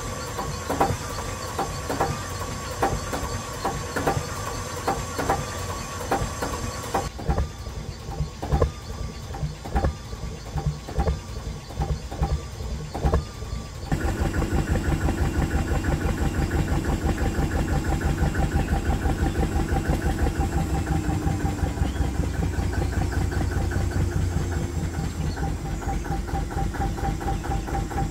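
Vintage Gardner 2L2 two-cylinder diesel engine. The first half is slow, regular metallic clanks, about one and a half a second, with a ringing tone. About halfway through this gives way abruptly to the engine's fast, steady running beat.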